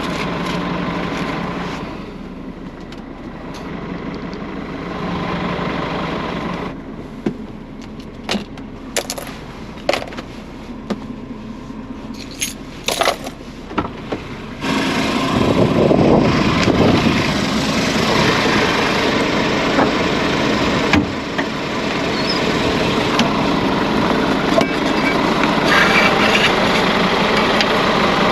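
Scania truck's engine running, with a run of sharp clicks and rattles in a quieter stretch, then a sudden rise to much louder engine noise about halfway through that holds to the end.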